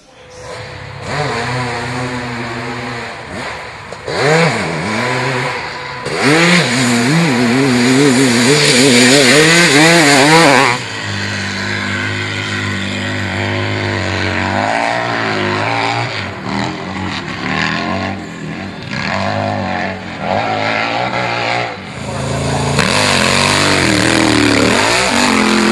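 Hill-climb motorcycle engines revving hard, their pitch wavering up and down with the throttle. The sound is loudest for a few seconds near the middle and again near the end, with sudden changes in between where one run cuts to another.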